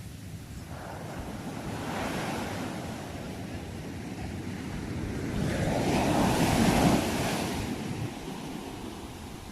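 Sea waves washing onto a shore: a smaller wave swells about a second in, then a bigger one builds to its loudest near the seven-second mark and eases back as it washes out.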